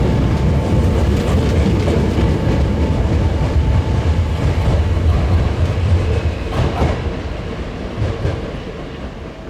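Hankyu 1000-series electric train running on the rails through the station throat, a heavy low rumble with a few clacks from the wheels, fading away over the last few seconds as it leaves.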